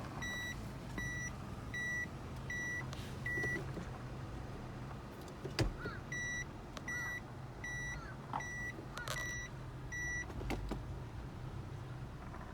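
Subaru Forester's EJ20 engine idling steadily under two runs of short, evenly spaced electronic warning beeps, about one every three-quarters of a second, five and then six of them, with a few light clicks in between.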